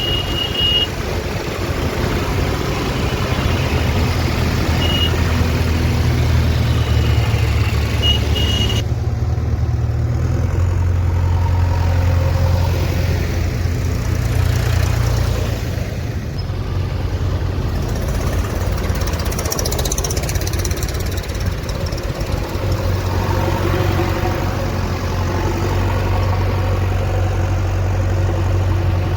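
Heavy diesel engine running steadily with a low rumble, with a few short high beeps in the first eight seconds.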